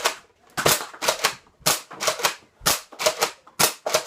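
Nerf blasters firing: a quick, uneven string of about a dozen sharp shots, roughly three a second.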